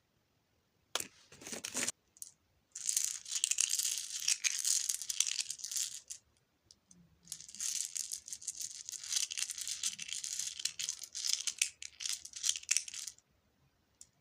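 Toy packaging rustling, crinkling and tearing as it is opened, with a short burst about a second in followed by two long stretches of crackling.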